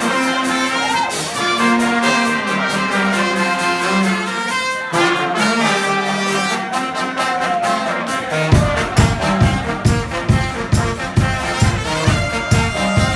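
Brass band playing: trumpets and trombones holding and moving between notes. About two-thirds of the way through, a low, steady beat of roughly two pulses a second comes in under the horns.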